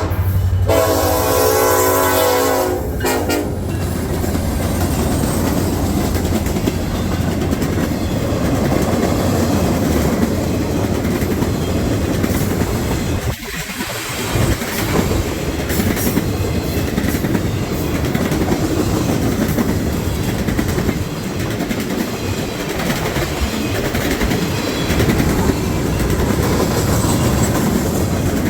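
Locomotive horn sounding for about the first three seconds, then a Norfolk Southern welded rail train rolling past with a steady rumble and wheel clatter, with a brief dip about halfway.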